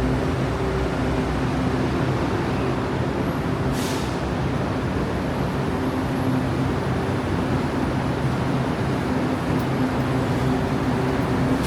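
Metro train standing at the platform, its equipment giving a steady hum, with a brief hiss of air about four seconds in.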